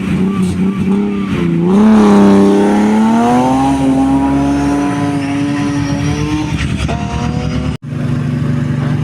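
Rally car engine revving at the start line, then launching and accelerating away, its note climbing steadily for several seconds before it fades. Near the end the sound cuts out briefly, and then another engine idles steadily.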